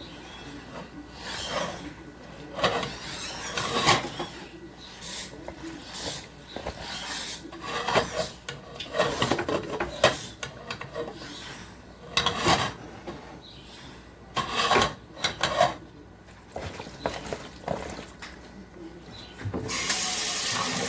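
Raw chicken being mixed and rubbed with curry seasoning by hand: irregular rubbing and scraping strokes, a few each second, some sharper than others. A steady hiss starts just before the end.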